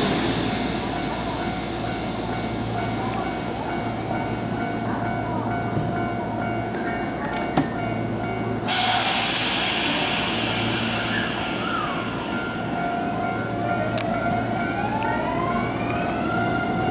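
Kintetsu 9020-series electric train departing. A loud hiss of compressed air at the start, a sharp click about seven and a half seconds in, and a second loud hiss of air about nine seconds in. In the last few seconds comes the rising whine of the traction motors as the train pulls away.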